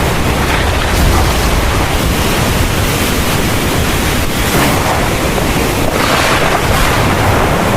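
Heavy rain pouring in a steady, dense hiss with a deep rumbling undertone, swelling slightly a few times.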